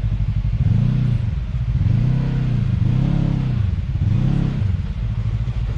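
Side-by-side UTV engine revved up and down in about four short bursts while it works slowly over rocks.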